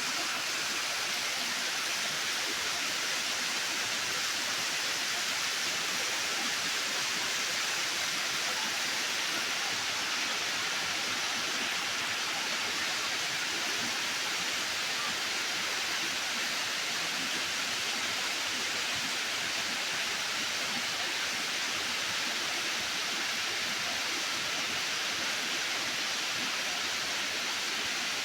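Tropical rainstorm: rain pouring down in a steady, even hiss.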